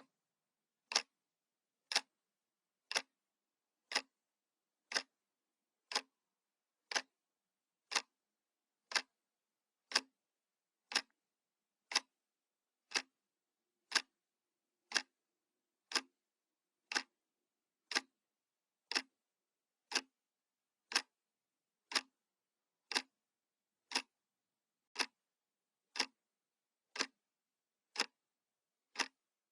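Analog wall clock ticking steadily, one sharp tick each second as the second hand steps.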